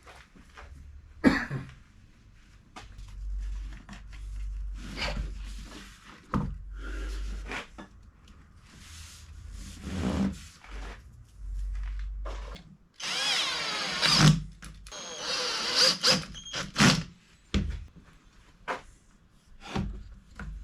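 Workshop tool sounds: scattered knocks and clatters, with a power tool running in two short spells about two-thirds of the way in.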